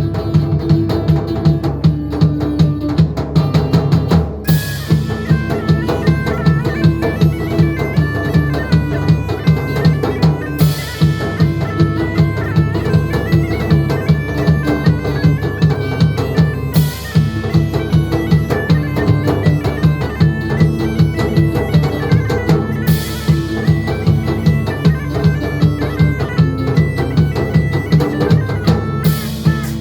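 Medieval folk band playing bagpipes over a steady drone, with a driving drum beat. The bagpipe melody comes in about four seconds in, and a bright crash sounds about every six seconds.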